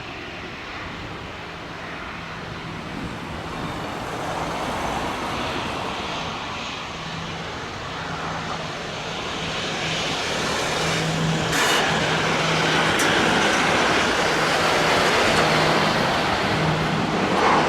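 Airbus A350-900's Rolls-Royce Trent XWB turbofans at takeoff thrust: a broad jet roar growing steadily louder.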